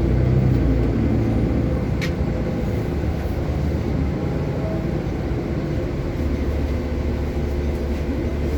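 Steady low rumble of a moving public transit vehicle, with a single sharp click about two seconds in.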